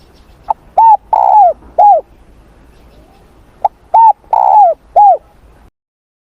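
Spotted dove cooing: two matching phrases, each a short note followed by three falling coos with the longer one in the middle. The sound then cuts out completely shortly before the end.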